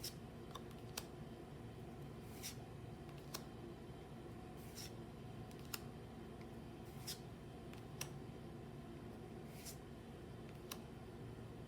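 Pokémon trading cards being handled and flipped through one at a time: a short card slide and a light click, taking turns about every second, over a steady low hum.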